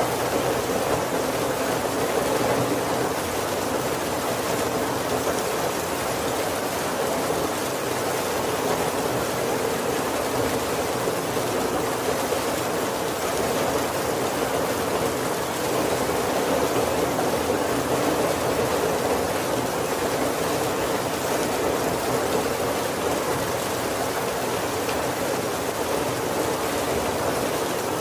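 Steady heavy rain falling on a wooden carriage roof and windows, an even unbroken patter.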